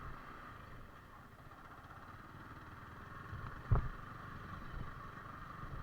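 Yamaha R15 V4 motorcycle idling faintly and steadily, with one sharp thump a little past the middle.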